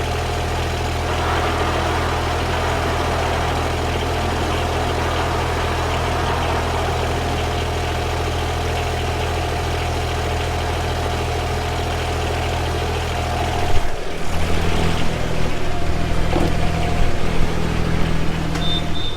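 Yanmar VP80DX rice transplanter engine idling steadily; about 14 seconds in, the sound changes abruptly and runs rougher and more uneven.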